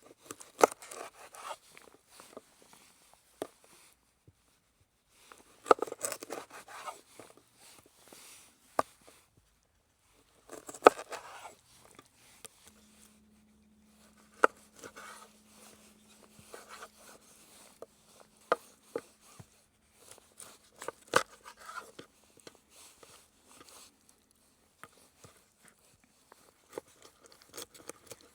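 Hands-on handling sounds: scattered sharp knocks and clicks, with short bursts of scraping and crunching, like ingredients or utensils being worked on a board. A faint steady hum comes in about midway and fades out near the end.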